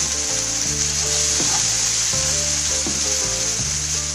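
Aubergine slices and cherry tomatoes frying in olive oil in a pan, a steady sizzle, with background music of held low notes that change about every half second.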